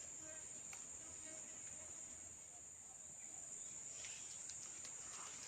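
Faint, steady, high-pitched chorus of insects such as crickets, with a few soft clicks near the end.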